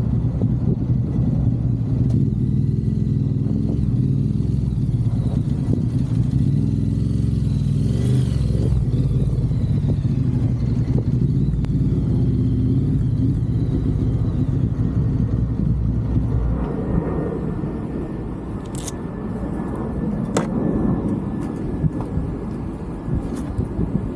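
Suzuki GSX-R750 inline-four engine heard from on the bike, running steadily at cruising speed, its pitch shifting around eight seconds in. The engine eases off and gets quieter after about sixteen seconds, with a few sharp clicks near the end.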